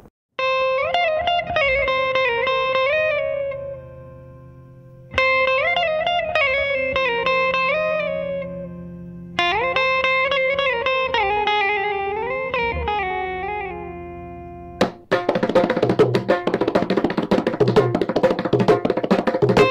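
Music on a plucked string instrument: three slow melodic phrases with bending, sliding notes, each left to fade, then a dense, rapidly strummed passage about fifteen seconds in.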